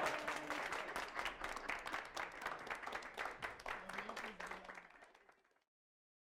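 A small group clapping and applauding, the clapping thinning and fading out about five seconds in, followed by dead silence.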